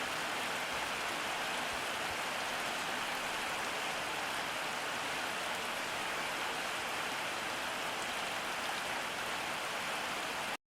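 Steady rain falling on surfaces, an even rushing patter with no change in strength. It cuts off abruptly right at the end.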